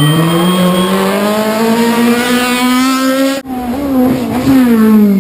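Rally car engine revving hard, its pitch climbing steadily for about three seconds. A sudden brief cut in the sound comes about three and a half seconds in. The revs then rise again briefly and fall away near the end.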